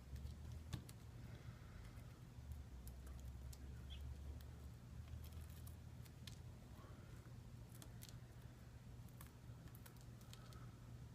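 Faint, scattered light clicks and ticks of hand tools prying at a smartphone's cracked screen assembly, over a steady low hum.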